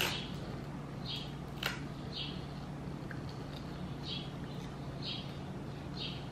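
A person chewing a bite of crisp roasted seaweed snack: soft, short chewing sounds about once a second, with one sharper click, over a faint low hum.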